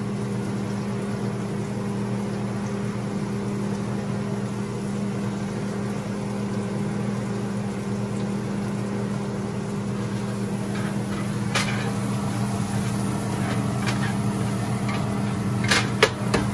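Chopped garlic and onion sizzling in a hot nonstick grill pan over a steady low hum. A bamboo spatula scrapes against the pan a few times near the end.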